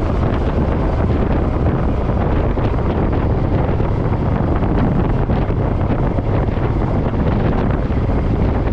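Steady, heavy wind rush on the microphone of a camera riding on a moving Suzuki Boulevard M50 motorcycle, with the bike's V-twin engine running under it at cruising speed.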